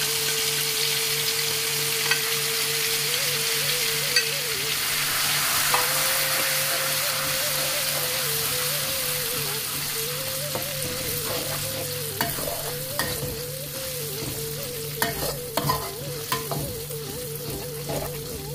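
Freshly ground red chilies sizzling in hot oil in an aluminium wok while being stirred with a spatula. The sizzle is loudest at first and eases off, and in the second half the spatula scrapes and taps against the pan several times.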